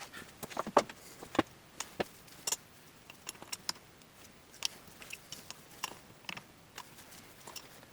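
Irregular light clicks and knocks of small metal parts and tools being handled as an old turbine governor is dismantled, a few of them sharper about a second in.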